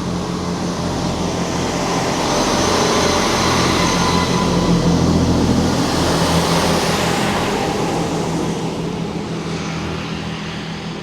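Diesel passenger train running along the platform: a steady engine rumble under wheel and rail noise that builds to its loudest in the middle, then fades away.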